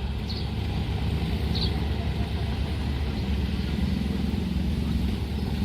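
Steady low rumble of a train running through a level crossing, with two brief faint high squeaks in the first couple of seconds.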